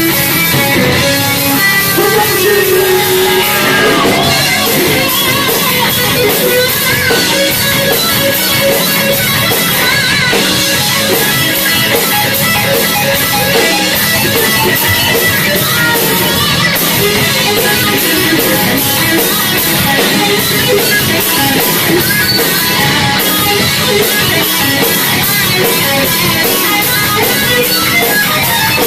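Live heavy metal band playing loud: distorted electric guitars with bass and drums in an instrumental passage of a song.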